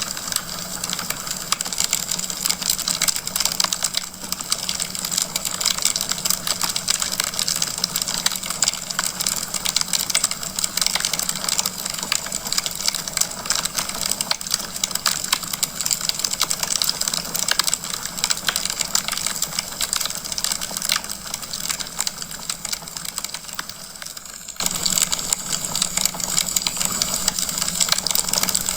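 Wood fire burning in a fireplace, with dense, continuous crackling and small pops of the logs over a steady hiss. The level dips slightly and then jumps back up suddenly about 25 seconds in.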